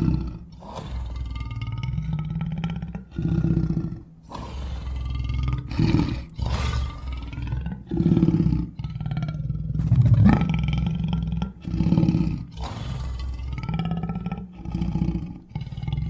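Deep monster roars and groans of Mongo, the giant gingerbread man, in a string of calls each a second or two long, their pitch gliding up and down over a heavy low rumble.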